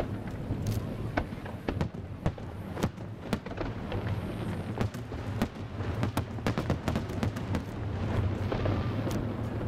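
Fireworks display: a rapid, irregular run of bangs and pops from shells bursting, over a steady low rumble.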